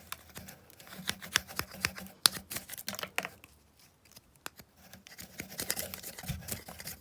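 A Mora knife blade cutting and shaving a green plant stalk: an irregular run of short, sharp scrapes and snicks, sparser for a moment around the middle.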